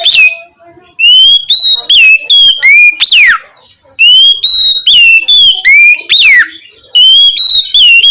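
Oriental magpie-robin (kacer) in full loud song: clear whistled notes around one high pitch, grouped in phrases that repeat about every three seconds, two of which end in a long falling whistle.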